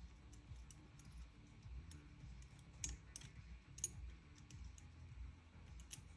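Faint, scattered clicks and taps of small gun parts being handled and fitted during reassembly of an airsoft trigger housing, with a few sharper clicks about three and four seconds in and near the end.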